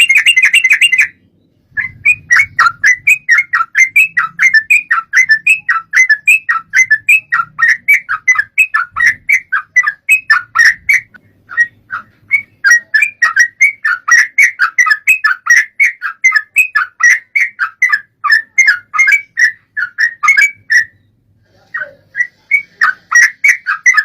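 Yellow-vented bulbul (trucukan) singing in long, fast runs of short chattering notes, several a second, opening with a brief continuous trill and pausing briefly about a second in, near the middle and again near the end.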